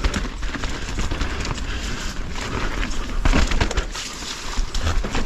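Mountain bike riding over a rough, wet trail: steady tyre noise with constant rattling and sharp knocks from the bike over roots and rocks, a cluster of harder knocks about three seconds in.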